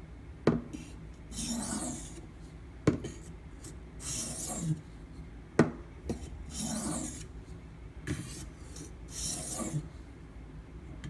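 Sharpening stone drawn along a knife edge held in a guided sharpening clamp: four short rasping strokes about two and a half seconds apart, each preceded by a sharp click.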